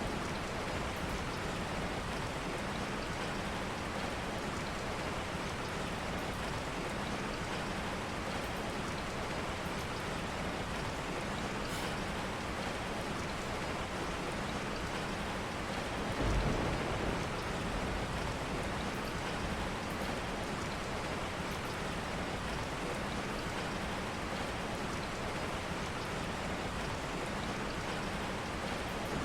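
Steady rain falling, an even hiss of drops. About halfway through there is a brief, soft low rumble.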